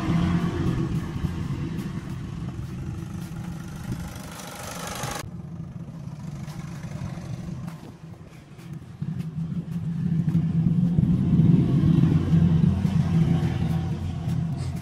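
A car engine running steadily, its hum swelling louder about ten to thirteen seconds in.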